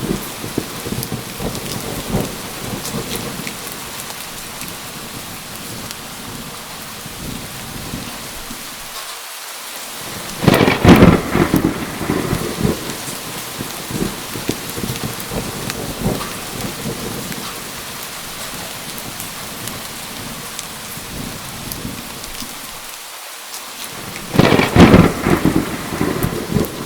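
Steady heavy rain falling, with two loud cracks of thunder: one about ten seconds in and one near the end, each lasting a second or two and rolling off into the rain.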